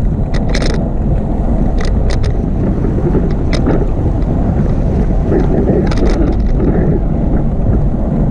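Wind buffeting the microphone of a camera on a moving bicycle: a loud, steady low rumble, with a few short clicks, some close together in pairs.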